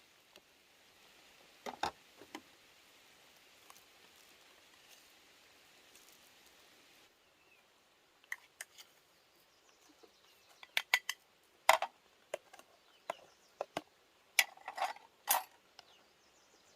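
Irregular sharp clicks and knocks of hard objects striking, scattered at first and then coming more often in the second half, over a faint steady hiss.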